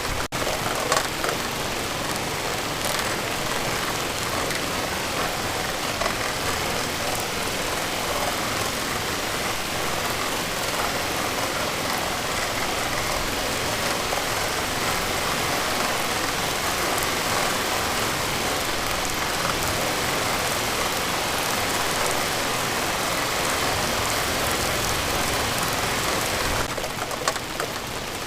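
Steady heavy rainfall: a dense, even hiss of rain with scattered drop ticks, a little softer near the end.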